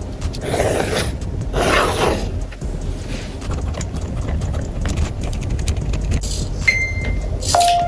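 Small clicks and knocks of objects being handled, with two rustling swishes in the first couple of seconds. Near the end come a short high electronic beep and then a longer, lower beep.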